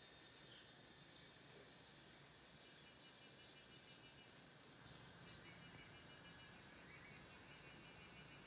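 A steady chorus of insects chirping, with a faint, rapidly pulsing trill that grows clearer about halfway through.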